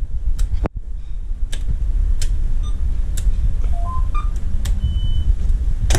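Helm switches clicking on one after another, with a few short electronic beeps at different pitches from the boat's helm instruments powering up, one longer high beep about five seconds in. A steady low rumble sits underneath.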